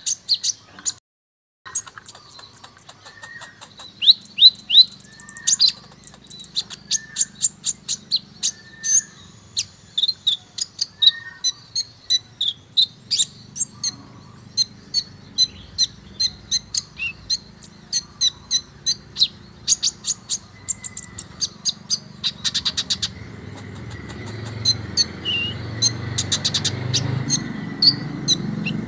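A kolibri ninja sunbird singing a fast, busy song of sharp, high chips and short rapid trills, the 'full tembakan' style of song used as a lure to make other sunbirds answer. A low background rumble grows in the last few seconds.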